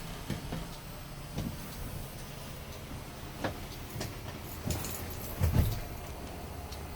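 Scania G400 tipper truck's diesel engine idling steadily, with a few scattered clicks and knocks; the loudest comes about five and a half seconds in.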